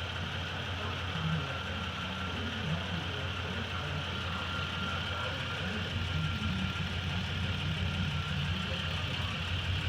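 A 2005 Chevy Equinox's 3.4-litre V6 engine idling steadily, with a faint, even high whine above it.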